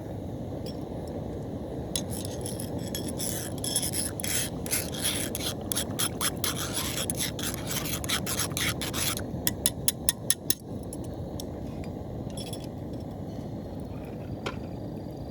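Rasping, scraping strokes repeated rapidly for several seconds, ending in a short run of louder, separate strokes, over a steady low rumble.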